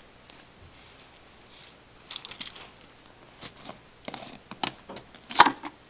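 Hands handling a pet's food and its container: scattered light clicks, taps and crinkles, starting about two seconds in, with a sharper click near the end.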